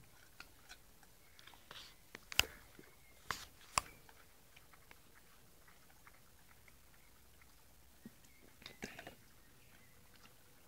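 A dog chewing and crunching on a raw carrot: a few sharp crunches about two to four seconds in, then another cluster near the end, with quiet gnawing between.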